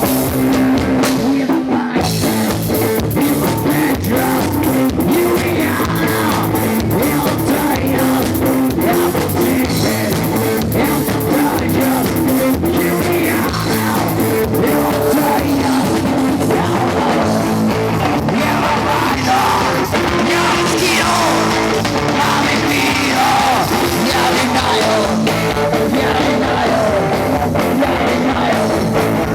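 Live rock band playing loud electric guitar and drum kit, with a voice joining in now and then.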